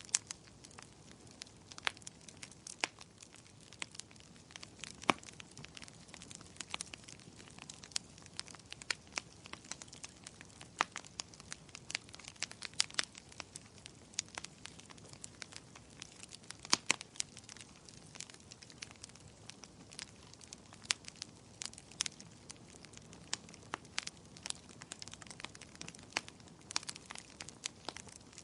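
Wood fire crackling: firewood burning with frequent irregular sharp pops and snaps over a soft steady hiss.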